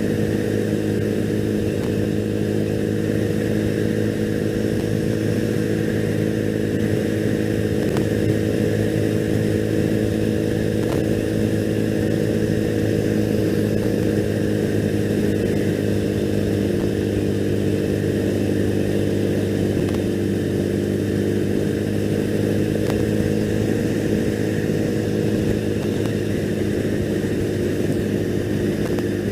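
2001 Triumph Bonneville's parallel-twin engine running steadily at cruising speed, with a constant pitch and no gear changes, over steady road and wind noise.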